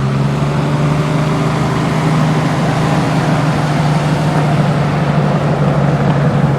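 A car engine running steadily at an even speed, heard close up, with a low, unchanging hum.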